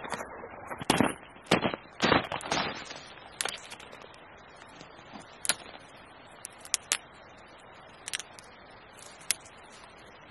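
Wood campfire crackling, with several loud sharp cracks in the first few seconds, then sparser pops over a faint steady hiss.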